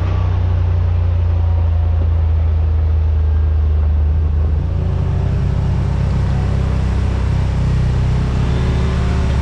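Side-by-side UTV engine running under way with a steady low drone, its pitch shifting a little about halfway through.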